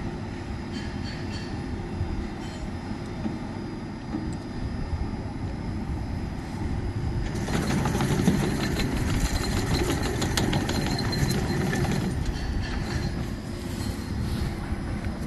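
Engine of a tracked remote-controlled slope mower running steadily. From about seven seconds in, a dense clattering and rattling joins it and it gets a little louder.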